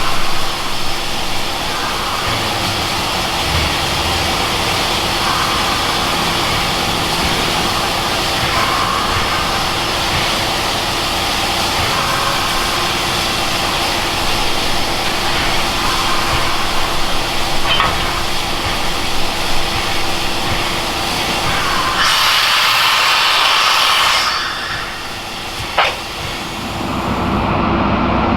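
Steam train running on the rails with a steady, noisy rumble. Near the end a louder hiss comes in for about two seconds, then the sound dips, with a single sharp click.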